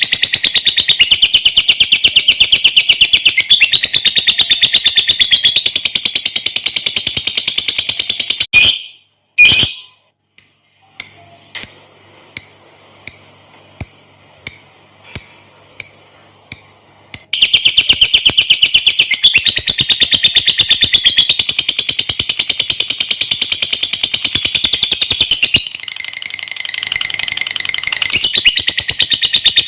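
Lovebird's long, rapid, high-pitched chattering trill (the 'ngekek' song), stopping about eight seconds in. After a short break come about a dozen single sharp chirps, roughly two a second, then the fast chatter starts again a little past the middle.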